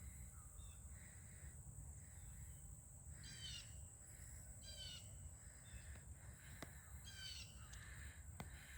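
Faint, distant birds calling: three short calls about three, five and seven seconds in. Under them run a low rumble and a steady high-pitched whine.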